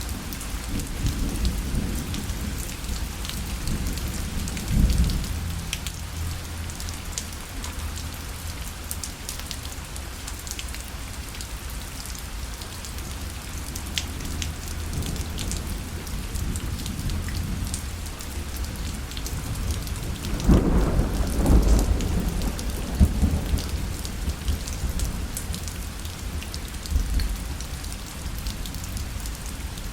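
Rain pattering on a parasol: a steady hiss dotted with sharp drop ticks, with low rumbles about five seconds in and again from about twenty to twenty-three seconds in.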